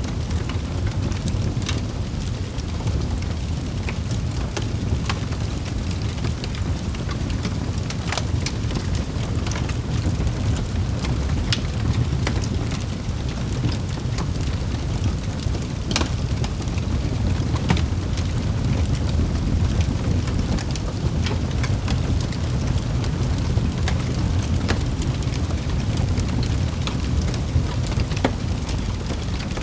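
Wood fire crackling in a fireplace: a steady low rumble of burning with irregular sharp pops and snaps, one louder pop about halfway through.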